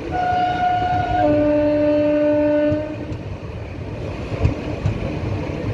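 Train horn sounding one long blast that steps down from a higher note to a lower one about a second in, lasting nearly three seconds. Under it and after it, the steady rumble and wheel clatter of a passenger train running on the rails.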